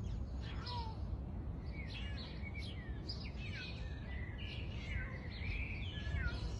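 Birds chirping and calling, with many short notes that glide up and down, over a steady low rumble of background noise.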